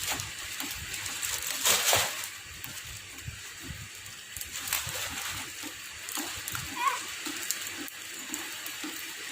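Rain and splashing water, a steady hiss with scattered small pattering clicks and one louder splash about two seconds in.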